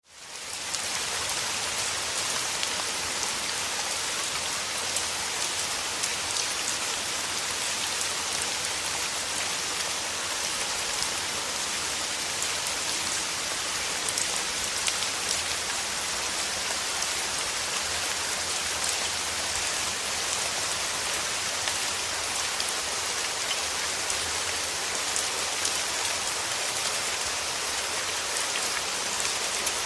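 Steady rain falling: a dense, even hiss of drops with fine scattered taps, fading in from silence in the first half second.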